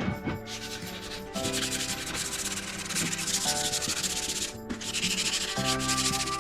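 Cypress wood being sanded with coarse 80-grit abrasive on a power sander, a rasping hiss that breaks off briefly twice. Background music with changing chords plays underneath.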